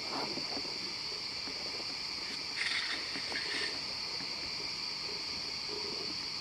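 Steady, high-pitched shrilling of insects in the forest, with a brief louder burst of noise about two and a half seconds in, lasting about a second.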